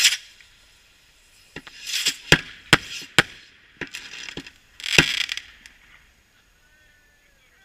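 Fireworks cannons going off on a burning boat: about eight sharp bangs in irregular succession over the first five seconds, with crackling between them that dies away about six seconds in.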